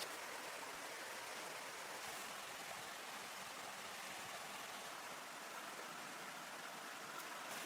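Running water: a steady, even rush with no single splashes or knocks standing out.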